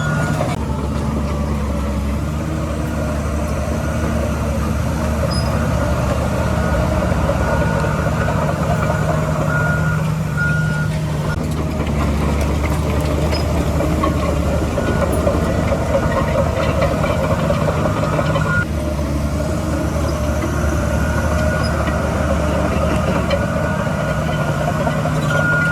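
Heavy diesel earthmoving machinery running steadily, with a reversing alarm beeping in short repeated tones at intervals.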